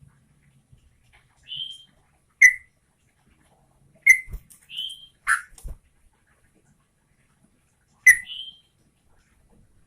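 Yellow-vented bulbul (trucukan) calling in short, sharp chirps, with silent gaps between them. The notes come in three loose clusters, the loudest of them clipped and piercing.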